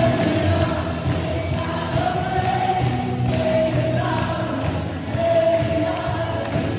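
Choir singing gospel worship music with band accompaniment, long notes held and changing every second or so.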